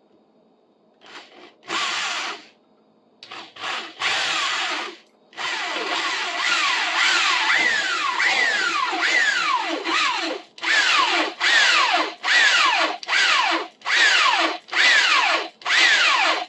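Old electric drill with a keyed three-jaw chuck boring into the wooden handle stub with a wood bit: a few short trigger blips, then a long run where the motor's pitch sags again and again as the bit bites into the wood, then short on-off bursts about one and a half a second near the end.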